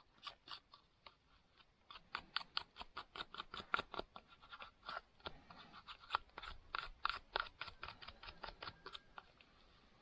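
Metal file scraping across saw teeth in quick, short, evenly paced strokes, about four or five a second, starting about two seconds in and stopping near the end.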